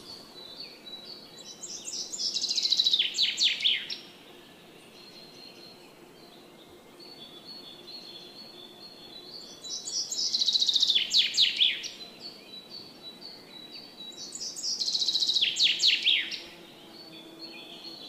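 Songbird singing: three phrases of about two seconds each, made of rapid down-sweeping notes that get louder through each phrase. Softer high chirps fill the gaps between phrases.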